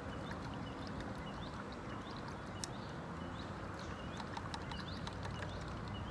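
Small birds chirping over and over in short, quick notes, above a steady low rumble of road traffic, with a few sharp ticks mixed in.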